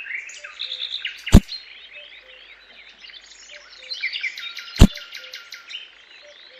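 Birds chirping continuously, many short high calls overlapping, with two sharp clicks, one about a second and a half in and one near five seconds in.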